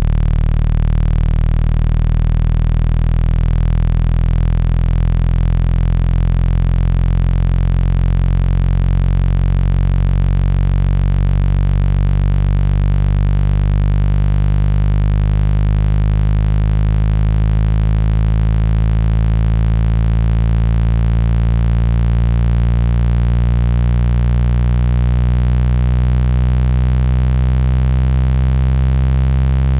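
Loud, steady, low electronic tone, a speaker-cleaning tone of about 165 Hz for shaking water out of a phone speaker, with fainter higher overtones slowly rising.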